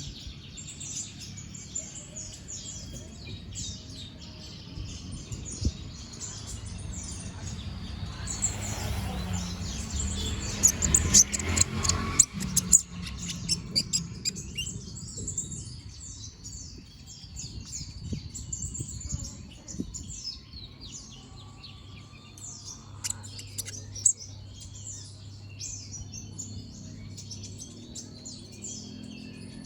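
Kolibri ninja (a small sunbird) singing a fast, continuous run of sharp, high-pitched chirps and trills. About a third of the way in, a louder patch of noise and low rumble lies under the song for a few seconds.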